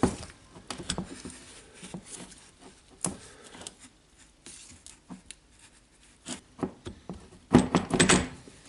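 Hand tools and angle-grinder parts handled on a workbench: scattered light clicks and knocks, with a louder burst of clatter near the end.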